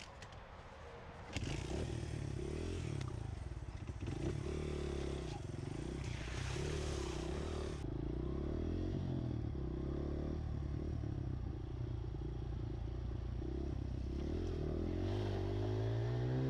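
Pit bike's small single-cylinder engine cuts in about a second in and runs unevenly, its pitch wavering, then rising near the end as it is revved. A short burst of hiss comes in the middle.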